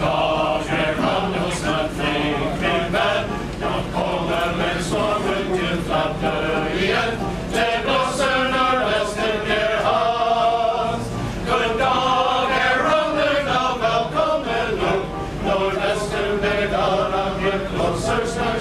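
Male chorus singing together, many voices in harmony.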